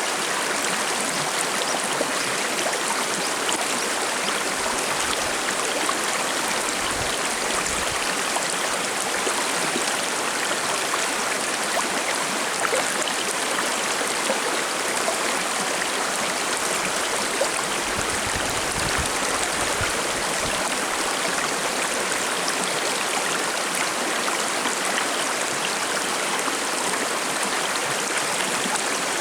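A forest river flowing and babbling over rocks in a steady, even rush of water.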